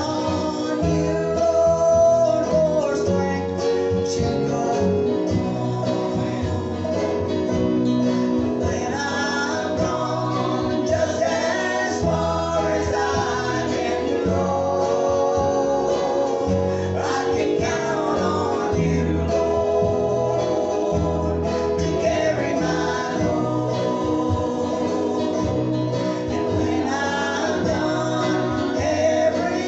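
Gospel group singing a song with guitar accompaniment and a steady bass line.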